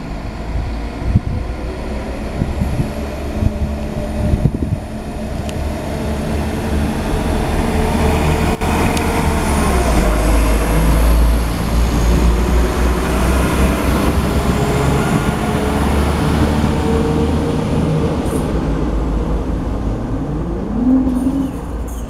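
London Midland Turbostar diesel multiple unit passing along the platform, its underfloor diesel engines running with the rumble of wheels on rail. It is loudest about halfway through as it goes by, and a short rising engine note follows near the end.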